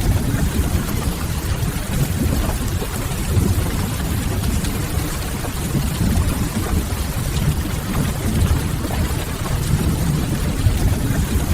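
Mixed rain and wood-fire ambience: a steady, even rush of rain, heaviest in the low end, with faint scattered crackles of burning firewood.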